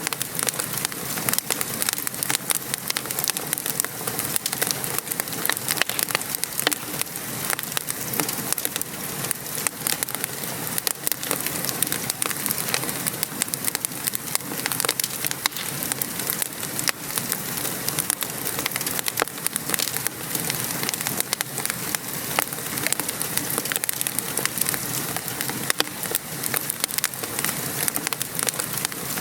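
Wood fire crackling over steady rain: many small sharp pops and snaps on an even rain hiss, with no let-up.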